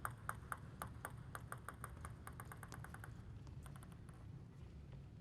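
Table tennis ball bouncing with light, sharp clicks, about three a second at first and then faster and faster until it stops about three seconds in, like a ball settling. A short quick run of clicks follows about a second later.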